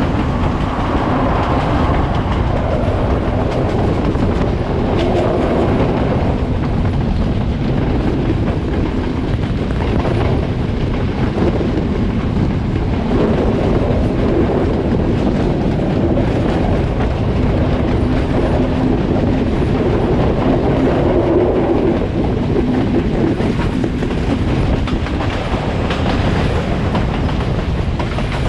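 Sri Lankan express passenger train running steadily at speed: a continuous rumble of wheels on the rails, with occasional clicks over the rail joints.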